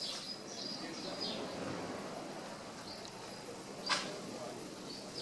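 Small birds chirping in short, irregular high chirps over a steady background hiss, with one sharp click about four seconds in.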